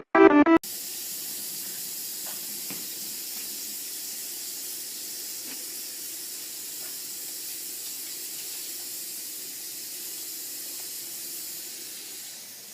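Water running steadily from a tap with a continuous hiss. It fades and stops near the end as the tap is turned off.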